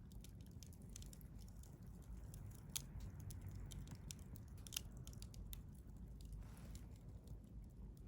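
Wood fire burning, crackling with irregular small snaps and a couple of sharper pops, over a low steady rumble.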